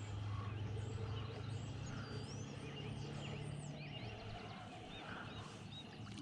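Small birds chirping and singing, with a steady low hum underneath that fades out about four seconds in.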